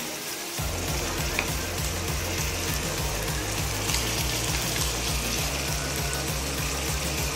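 Onions and split moong dal sizzling steadily in hot oil in a pan, with chopped tomatoes tipped in about four seconds in. Background music with a low, shifting bass line plays under it.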